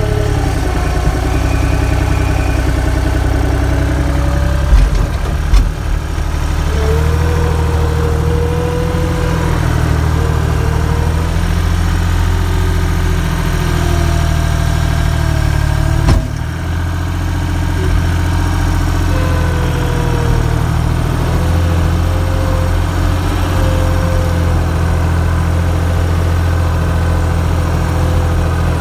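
An engine running steadily at a low idle, with a faint wavering whine above it. A couple of knocks come about five seconds in, and a sharp click about sixteen seconds in.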